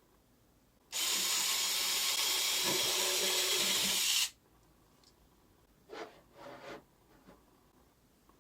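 A loud, steady hiss lasting about three seconds, which starts and stops abruptly, like a spray or a blast of air. A few short, fainter rubbing or scraping sounds follow near the end.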